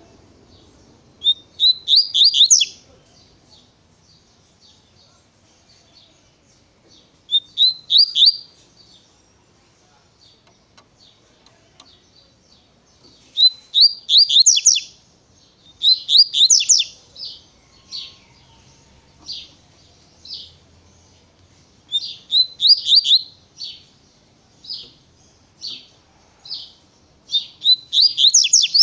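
Coleiro (double-collared seedeater) singing: six bursts of quick, rising whistled notes. From about halfway through, single short notes come about once a second between the bursts.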